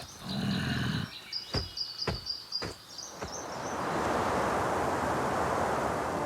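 Cartoon nature soundtrack: a quick run of high chirps like a small bird or insect, a short low grunt, then four sharp knocks about half a second apart. In the second half a steady rushing noise swells up, like wind.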